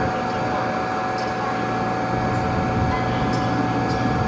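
KTX high-speed train powering up while standing at the platform: a steady hum of its onboard electrical equipment and cooling fans, with a constant high whine running through it.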